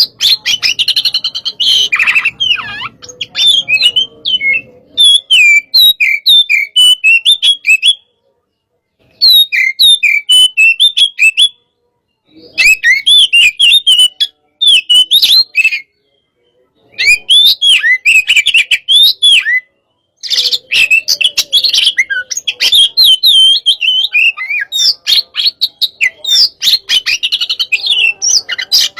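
Oriental magpie-robin (kacer) singing loudly in fast runs of varied whistles and chirps. This is the energetic song of a 'hot-type' kacer, broken by four short pauses.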